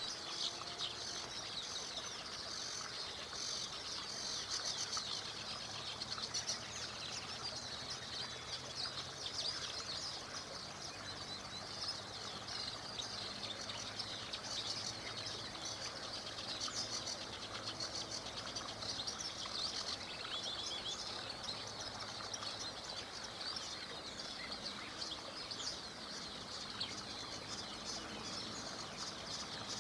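A chorus of songbirds chirping and singing continuously in many short, high notes that overlap, over a faint steady background hiss.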